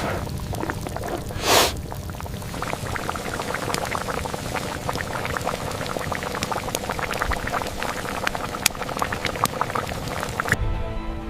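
Pot of soup boiling, with a dense bubbling crackle and one short loud splash about one and a half seconds in. Music comes in near the end.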